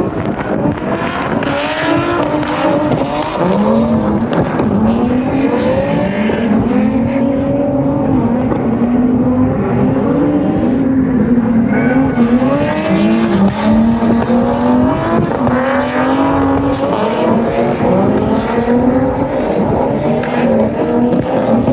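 Drift car engine revving hard, its pitch rising and falling over and over as the throttle is worked through the slides, with tyres screeching at times.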